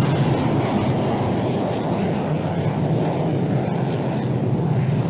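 Fighter jet engine noise: a loud, steady, deep roar.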